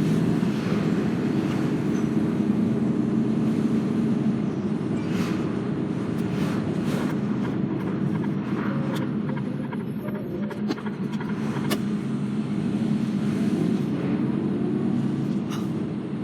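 A vehicle engine running steadily, with a few short clicks and knocks scattered over it.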